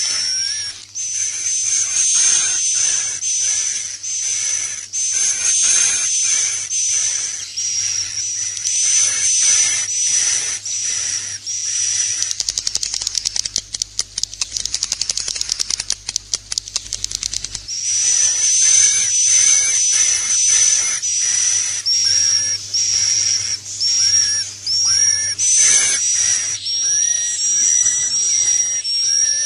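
Swiftlet calls played as a roosting ('inap') lure sound for a swiftlet house: a dense run of high, thin chirps repeating about twice a second. From about 12 to 18 s they give way to a rapid clicking rattle, then the chirping resumes.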